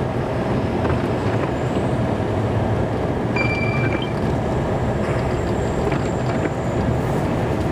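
Snow-plow truck's engine and drivetrain running steadily, heard from inside the cab, with a brief high tone a little over three seconds in.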